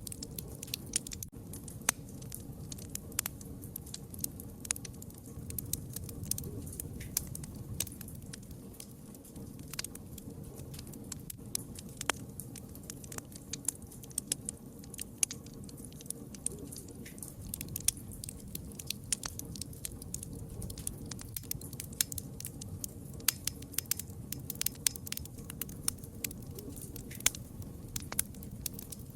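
Wood fire crackling: frequent irregular sharp pops and snaps over a steady low rumble of the burning fire.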